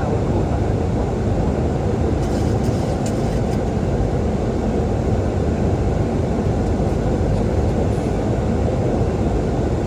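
Steady rush of airflow and engine noise inside the flight deck of a Boeing 737-800 on final approach, with the landing gear down.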